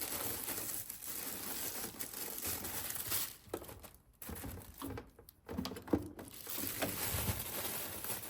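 Plastic packaging or bags crinkling as groceries are handled, with a couple of brief pauses and a few soft knocks.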